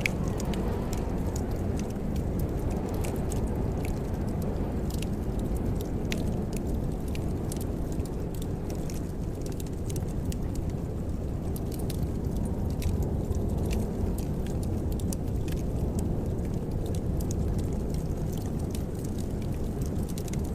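Wood fire in a fireplace crackling: scattered sharp snaps and pops over a steady low rumble of the flames.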